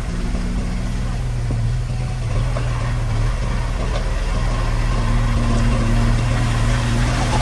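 Diesel engine of heavy construction equipment running steadily with a deep, even hum.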